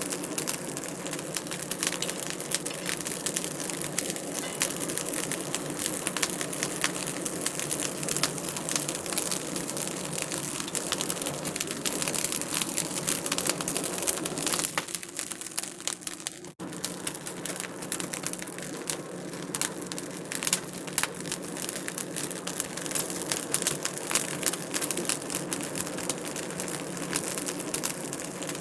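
Wood fire crackling, with a steady stream of small sharp pops and snaps over a soft hiss. About halfway through, the sound dips briefly and abruptly, then the crackling carries on.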